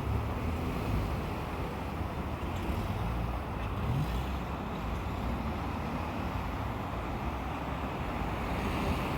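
Road traffic at a level crossing: motor vehicle engines running with a steady low rumble, one briefly revving up about four seconds in.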